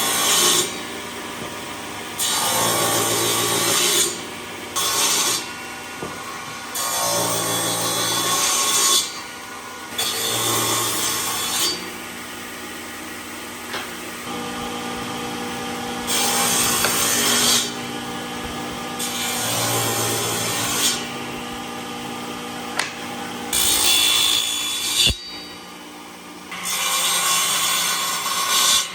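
A power tool working wood in short, repeated passes of one to two seconds each, over a steady machine hum. A sharp knock sounds about 25 seconds in.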